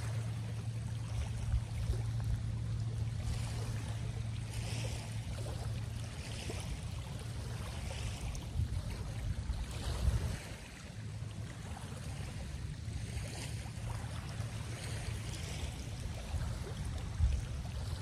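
Water lapping and splashing in soft swells every second or two, over a steady low hum that drops out briefly twice.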